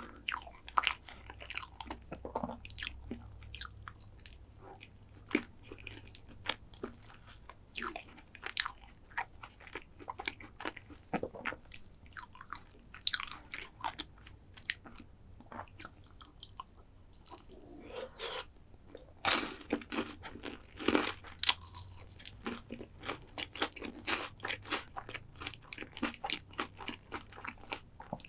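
Close-miked mouth sounds of eating a chocolate dessert: repeated crisp crunches and wet chewing, with a few louder bites about two-thirds of the way through.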